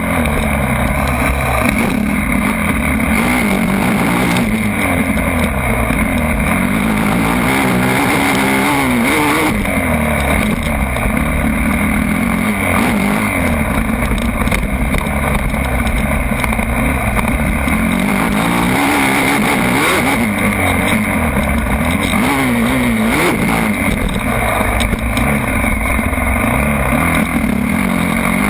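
Motocross bike engines revving hard, the pitch climbing and dropping again and again as the throttle opens and closes.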